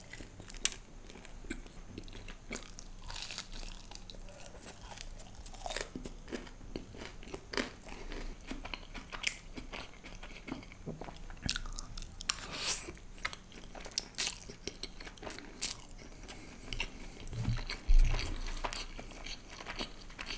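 Close-miked eating: crisp crunching bites and chewing of fried food, in many short crackles. One low thump about eighteen seconds in is the loudest sound.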